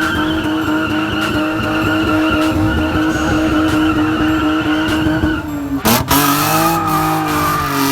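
Car engine held at high revs with tires squealing as the car tries to drift. About six seconds in the sound breaks off sharply and the engine carries on at lower revs.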